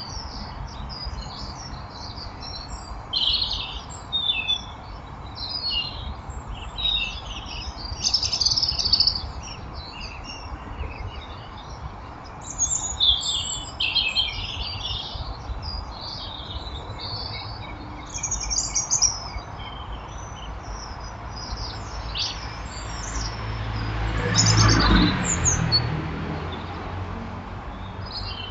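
Small garden birds chirping and calling, with many short, overlapping chirps over a steady low background hum. Near the end a rushing noise with a low rumble swells and fades.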